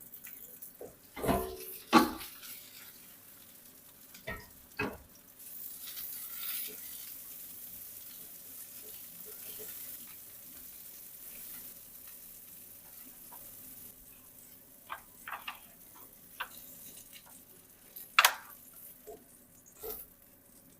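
Food frying in a pan, with a sizzle that swells a few seconds in and dies down after the middle. Sharp knocks and clinks of a utensil stirring against the pan come near the start and again toward the end.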